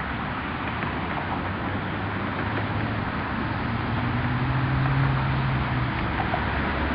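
Low engine hum that swells about four to six seconds in, over steady wind noise on the microphone.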